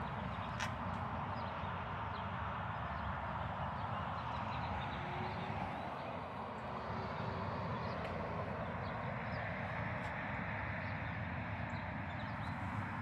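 Steady outdoor background noise with faint short high chirps and a few light clicks.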